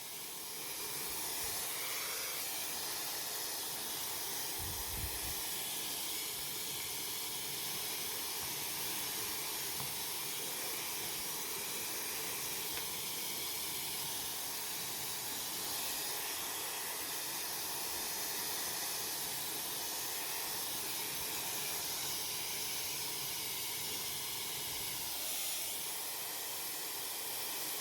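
A TechMeri Ultra Fast hair dryer blowing steadily, a constant airy rush of fan and air.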